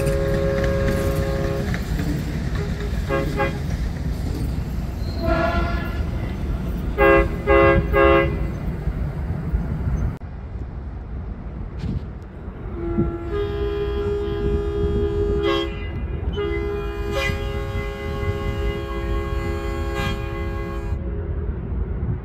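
Train horn sounding a chord of several notes in a series of blasts: a long one ending about two seconds in, a few short toots, three quick toots, then two long blasts in the second half. Under it runs the low rumble of the passing train.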